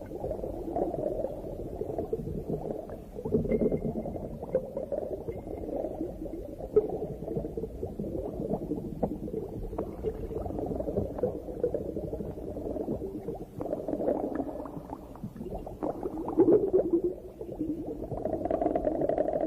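Underwater sound of a reef dive: continuous bubbling and gurgling that swells and fades every few seconds, with scattered small clicks.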